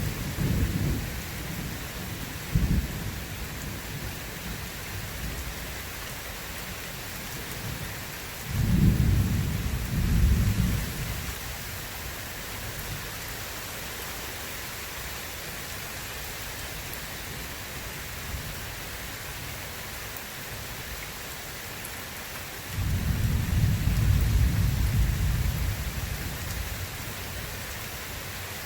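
Steady rain with thunder rumbling over it: a rumble at the start, a short sharp clap about two and a half seconds in, another rumble around nine to eleven seconds, and a longer rolling rumble from about 23 seconds.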